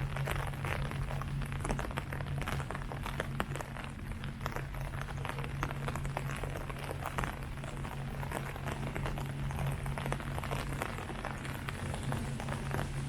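Rain falling on leaves: a dense, irregular patter of drops over a steady low hum.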